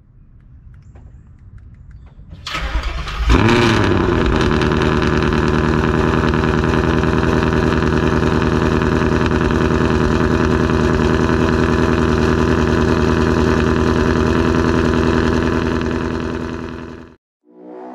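Ford Mustang 5.0 V8 with long-tube headers, an H-pipe and a Corsa active-valve exhaust, started up: a short crank, a rev flare as it catches, then a loud, steady idle. The sound cuts off suddenly near the end.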